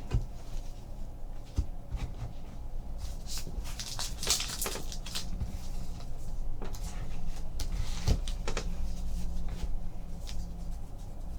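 Trading card packs and cards being handled at a table: scattered soft clicks and short bursts of rustling, busiest a few seconds in and again past the middle, over a steady low room hum.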